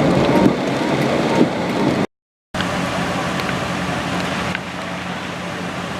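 A car driving, with steady road and engine noise heard from inside the cabin. The sound drops out completely for about half a second just after two seconds in, then the drone carries on and eases slightly near the end.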